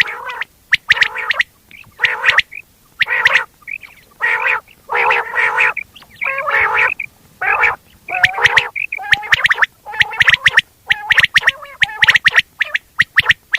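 Quail calling: a rapid series of short, repeated calls in groups, with brief pauses between them.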